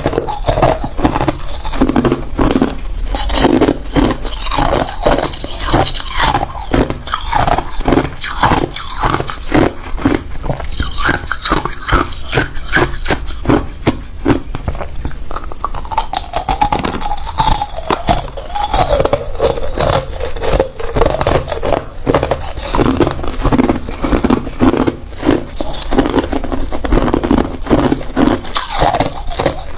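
Hard ice cubes being bitten and chewed: a continuous run of loud, sharp crunches as the ice cracks and grinds between the teeth.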